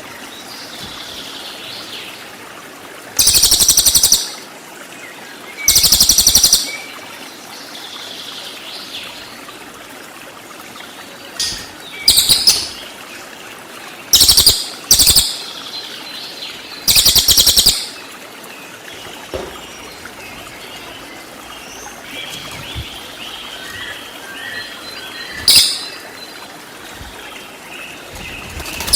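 Cililin songbird giving loud, rapid trilled 'shot' phrases, each burst a second or less, about seven times, with fainter calls between them over a steady background of running water.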